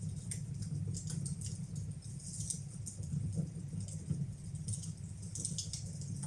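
Wood fire burning in a fireplace, crackling with irregular small pops over a steady low rumble.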